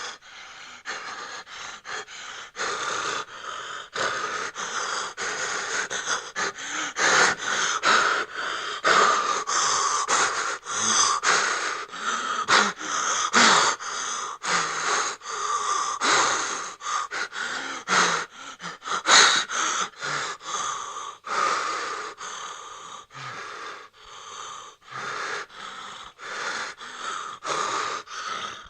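Horror sound effect of fast, ragged gasping breaths, several a second, with no break.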